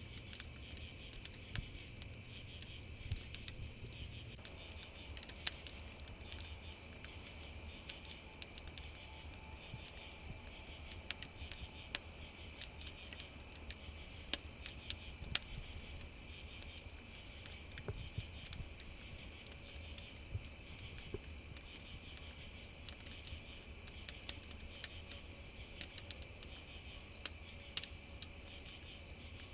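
A steady chorus of crickets chirping over a crackling campfire, with irregular sharp pops from the fire; two louder pops come about five and fifteen seconds in.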